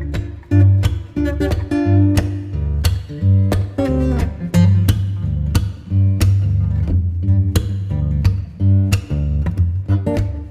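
Background music: plucked acoustic guitar with a strong bass line and a steady beat.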